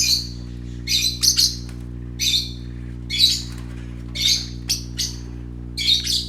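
Small pet parrots calling repeatedly: short, high calls, one or two a second, often in quick pairs or threes. A steady low hum runs underneath.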